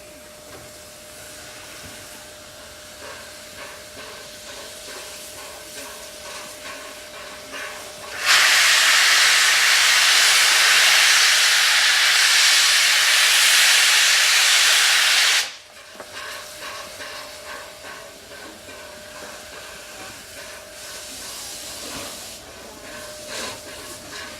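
Steam locomotive Tornado, an A1 Pacific, standing with its cylinder drain cocks open to clear its cylinders: a loud steam hiss that starts suddenly about a third of the way in and cuts off sharply some seven seconds later.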